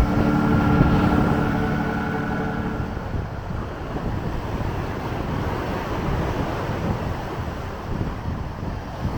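Strong wind buffeting the microphone as a low, uneven rumble, with lake waves washing on the shore beneath it. The tail of background music dies away about three seconds in.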